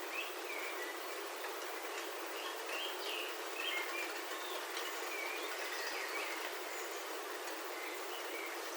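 Steady rain falling on a roof, heard from inside, with birds chirping briefly now and then over it.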